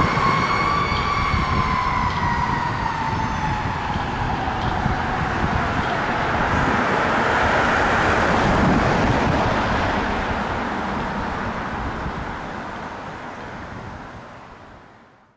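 Federal Q2B mechanical siren on a Ferrara pumper fire engine winding down, its wail falling steadily in pitch over several seconds, under the rumble and road noise of the truck going by, which fades away near the end.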